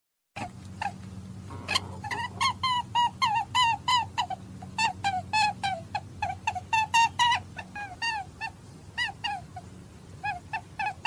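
A rapid run of short, high animal calls, each rising then falling in pitch, several a second, over a steady low hum.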